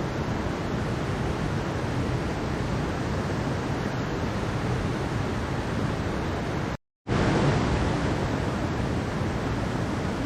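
Mountain stream water rushing steadily, an even broadband wash of flowing water. It cuts out completely for a fraction of a second about two-thirds of the way through, then carries on.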